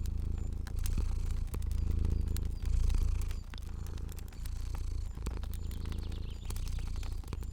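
A cat purring in a low, steady rumble that swells and eases about once a second with its breathing, over a fire's frequent small crackles and pops.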